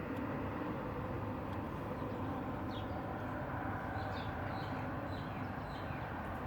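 A small bird chirping, a run of short high notes starting about three seconds in, over a steady low background hum.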